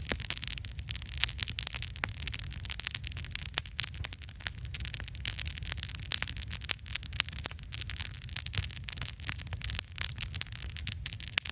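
Wood campfire crackling, with many irregular sharp pops and snaps over a steady hiss and a low rumble underneath.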